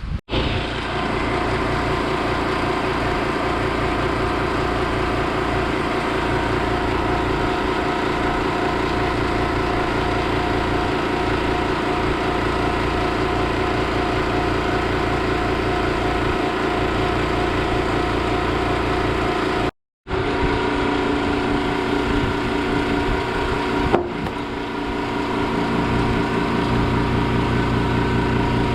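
Honda Dio AF34 scooter's small two-stroke engine idling steadily. There is a brief cut about two-thirds of the way through, after which it runs on steadily with a click just after.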